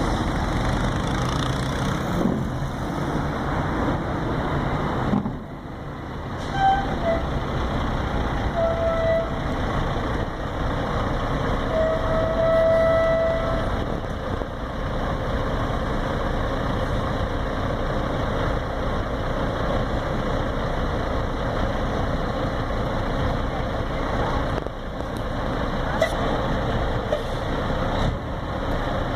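Kenworth W900L semi truck's diesel engine running through straight pipes, a steady heavy exhaust rumble that dips briefly about five seconds in.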